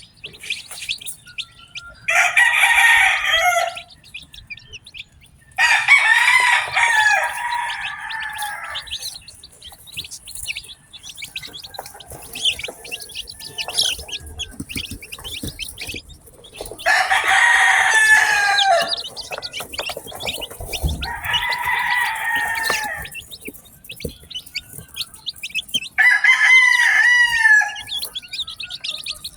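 Newly hatched chicks peeping without pause in high, thin chirps. A rooster crows five times over them, each crow lasting about two seconds.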